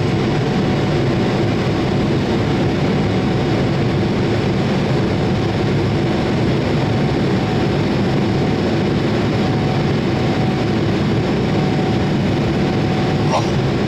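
Steady jet noise of a Boeing 787-8 with Rolls-Royce Trent 1000 engines, running evenly at a constant level with a faint steady whine through it. A brief click sounds near the end.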